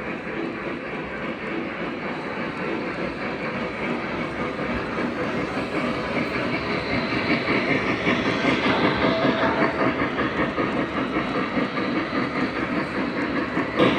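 Model train running along the layout track, a steady rolling rumble with rapid rhythmic clicking from the wheels, growing louder as it comes closer.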